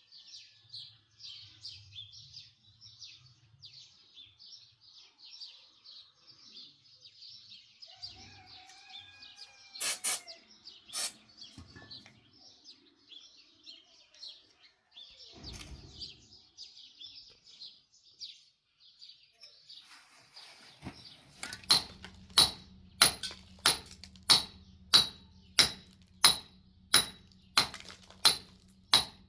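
Small birds chirping continuously, with a few sharp clicks partway through. About two-thirds of the way in, a steady low hum starts along with a regular series of sharp knocks, a bit more than one and a half per second.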